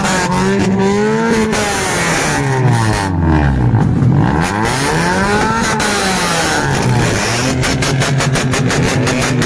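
Vehicle engine revving, its pitch falling to a low point about four seconds in and climbing again, then settling into a quick, even pulsing near the end.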